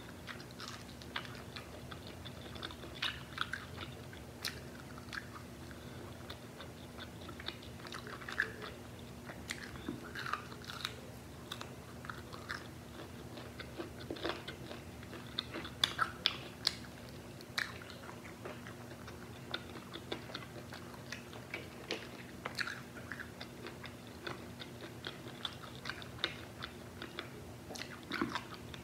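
Close-miked chewing and biting of KFC Hot & Crispy fried chicken: wet mouth sounds mixed with crisp crunches of the breaded coating. The sharpest crunches come around the middle.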